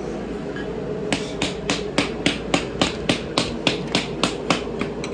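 Hammer tapping rapidly on a wooden block, about four strikes a second, to drive a piston and connecting rod out of an engine cylinder. The strikes start about a second in and stop just before the end.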